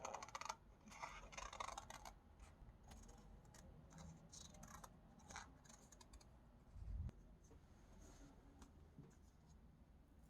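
Faint scratching and rustling of sticker sheets and paper being handled, strongest in the first two seconds, with scattered small clicks and a low bump about seven seconds in.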